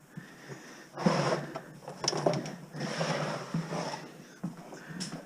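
Scraping and clattering of scrap wire and debris being handled and pulled at, starting about a second in, with a few sharp knocks.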